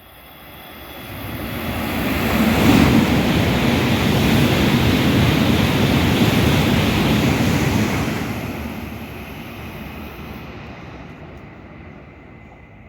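Sanyo Shinkansen train passing through the station at high speed without stopping: a rushing roar that builds quickly, stays loud for about five seconds, then fades away.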